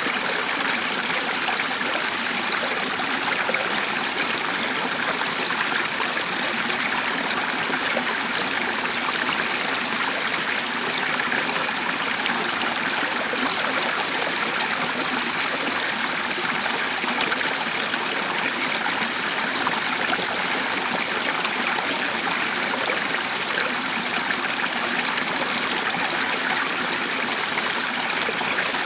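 Steady running water of a stream, an even rushing and trickling that does not change.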